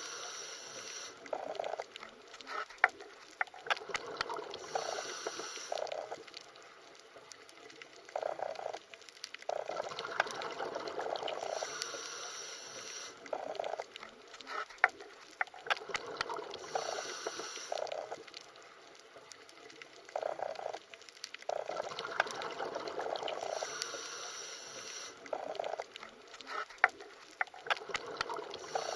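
Underwater water sounds: bubbling and gurgling that swells and fades, with scattered sharp clicks and pops, repeating as a loop about every 12 seconds.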